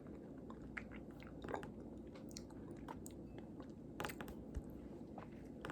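Faint chewing of a soft stone fruit (plum or peach): irregular small wet mouth clicks, a little stronger about a second and a half in and again about four seconds in.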